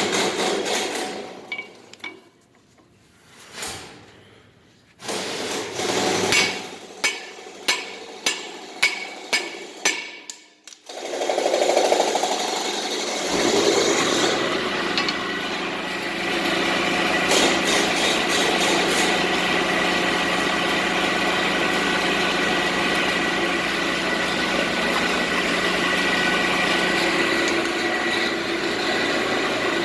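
A run of hammer blows, about eight strikes in quick succession, on the baler roller being taken apart. Then, about eleven seconds in, an engine starts and keeps running steadily.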